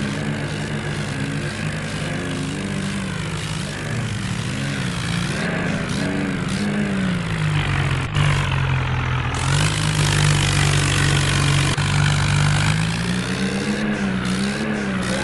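Tractor engine running under load while pulling a double trolley. Its note wavers, drops about eight seconds in and climbs again near the end.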